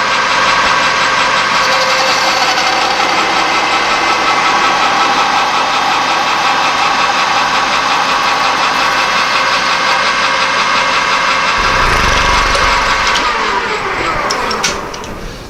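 Metal lathe running with a steady whine of many tones, then switched off near the end, its pitch falling as it spins down.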